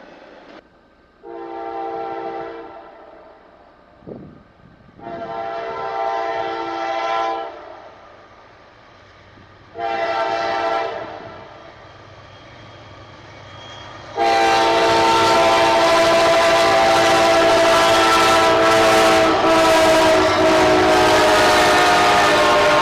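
A locomotive horn sounding the grade-crossing signal as a train approaches: two long blasts, a short one, then a final long blast held as the train reaches the crossing. The horn plays a chord of several notes, and from the last blast on the train's loud rolling noise runs with it.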